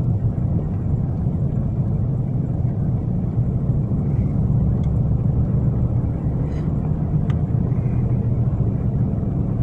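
Steady low rumble of a car driving, heard from inside the cabin: engine and studded winter tyres running over a salted but unplowed snowy road. A few faint clicks sound in the middle.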